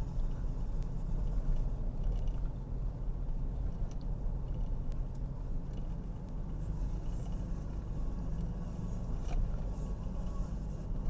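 Car engine and road noise heard from inside the cabin while driving: a steady low rumble, with a couple of faint clicks.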